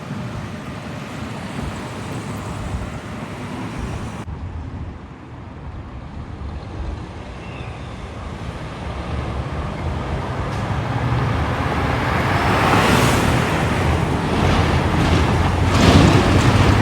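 Road traffic noise, then a heavy truck approaching, its low engine note growing steadily louder through the second half.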